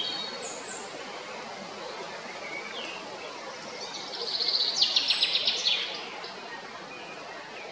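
Songbird twittering: a few short high chirps, then, about four seconds in, a rapid run of high chirps lasting a second or two, over a steady outdoor background hiss.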